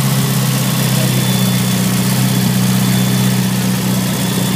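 Mazdaspeed6's turbocharged 2.3-litre four-cylinder engine idling steadily and loud, freshly brought back to running.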